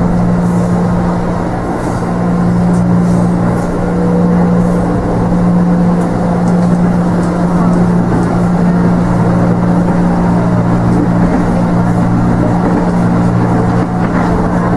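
Cabin noise of an electric commuter train under way: a steady low hum with rumbling running noise at an even level.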